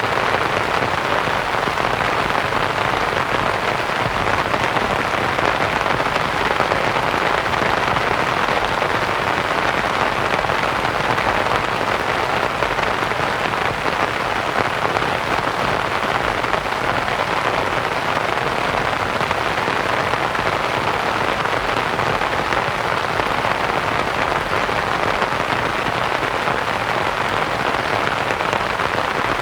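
Steady rain falling on a canvas tent, blended with white noise into an even, unbroken hiss.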